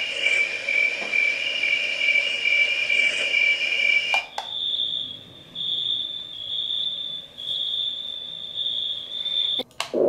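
SZTROKIA white noise machine playing its built-in sleep-ambience track, a steady high two-note chirring, then a button click about four seconds in and its summer-night track, a higher insect-like chirp pulsing about once a second. Another button click comes near the end.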